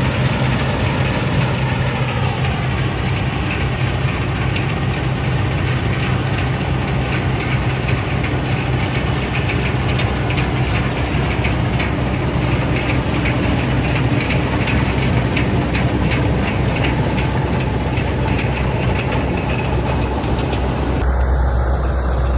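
Fortschritt E514 combine harvester running steadily, its diesel engine humming under a dense, fine rattle of machinery. Near the end the sound changes abruptly to a deeper, duller rumble without the rattle.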